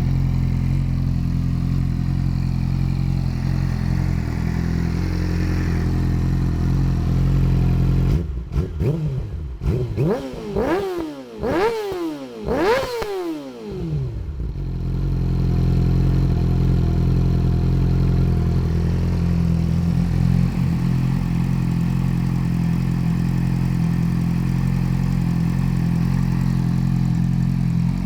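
2010 Yamaha R6 inline-four sport bike idling through a Termignoni full-system exhaust, blipped about four times in quick succession a third of the way in, each rev rising sharply and dropping straight back, before it settles to a steady idle again.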